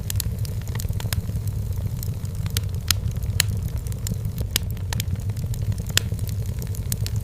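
Wood fire burning in a fireplace: a steady low rumble of the flames with frequent sharp crackles and pops, a few louder pops about three, four and a half and six seconds in.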